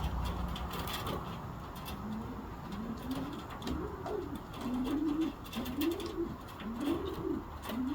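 Racing homing pigeons cooing: a series of low coos, each rising and then falling, about one a second, starting about two seconds in.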